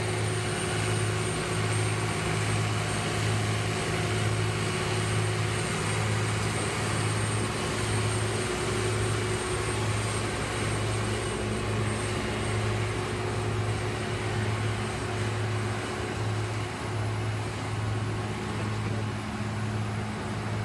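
Heavy road-construction machine's engine running steadily, with a throbbing low hum and a constant mechanical drone.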